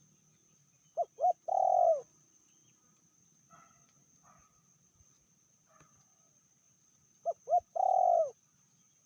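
Spotted dove (tekukur) cooing: two three-note coos about six seconds apart, each two short notes followed by a longer note that drops in pitch at the end.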